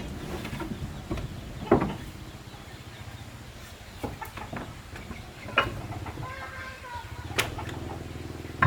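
Four sharp knocks, irregularly spaced, over a steady low hum, with a few short pitched calls, like a chicken clucking, partway through.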